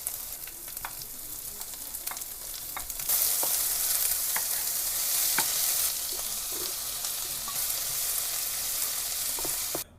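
Food sizzling in a hot pan, a steady hiss that gets louder about three seconds in and eases a few seconds later, with light clicks of utensils against the pan.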